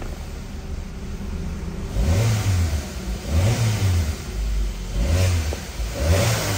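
2012 Chevrolet Cruze LTZ four-cylinder petrol engine running, idling at first and then revved in four quick blips from about two seconds in. The engine has a knock that the mechanic says makes it sound like a tractor, still there after a replaced cylinder head.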